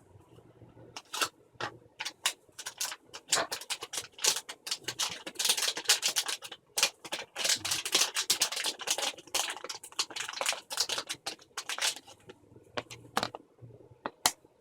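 Packaging being opened and handled by hand: a dense run of crinkles and sharp clicks starting about a second in and stopping around twelve seconds, then a few single clicks near the end.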